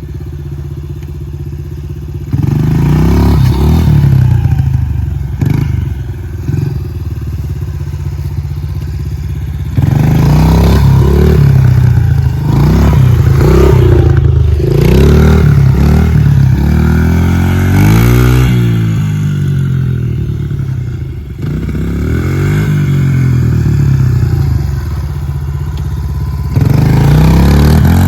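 Single-cylinder four-stroke engine of a Honda CRF pit bike, running and being throttled up in repeated bursts: the revs climb and fall several times, with quieter stretches near idle between. Typical of throttle launches in first gear with the low-end-geared sprocket.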